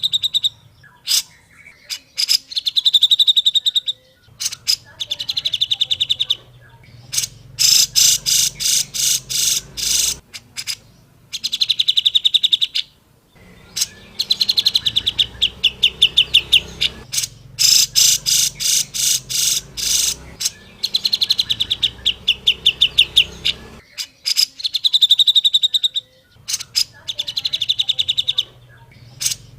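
Grey-cheeked bulbul (cucak jenggot) calling: repeated bursts of fast, harsh notes, about eight a second, each burst lasting a second or two with short pauses between.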